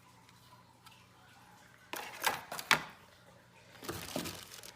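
Plastic packaging crinkling in two short bouts as an accessory is handled and unwrapped, with one sharp click partway through.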